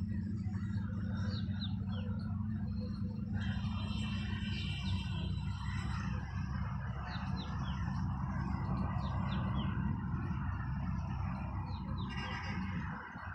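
Small birds chirping in short, quick falling notes, a few every couple of seconds, over a steady low rumble that eases off near the end.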